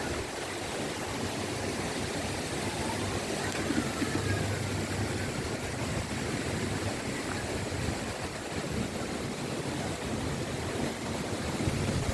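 Strong wind gusting over the microphone: a steady rush of noise that swells about four seconds in and again near the end.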